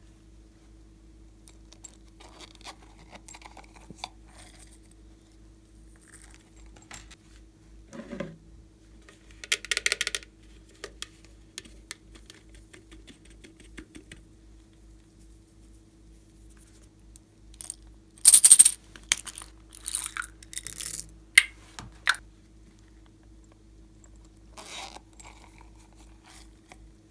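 Slime being handled and mixed by hand: scattered sticky clicks, crackles and squelches, with louder clusters about ten seconds in and again from about eighteen to twenty-two seconds in, over a faint steady hum.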